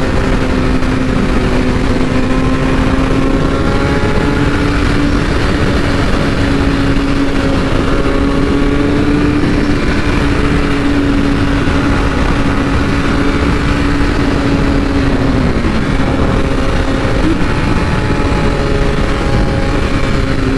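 BMW S1000RR's inline-four engine running at steady cruising revs, its note stepping up slightly about four seconds in and dipping briefly late on, under heavy wind rush on the rider's microphone.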